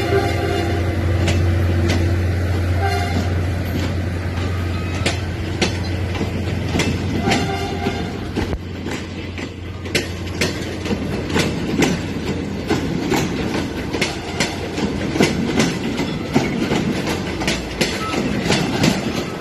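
Diesel-hydraulic locomotive passing: its engine drones steadily and its horn gives short toots near the start, at about three seconds and again at about seven seconds. Then rapid clickety-clack from the wheels crossing rail joints takes over as the engine drone fades.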